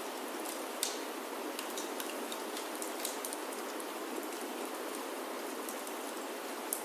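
Steady rain falling on a roof, with scattered sharp ticks and crackles over it. The strongest tick comes about a second in.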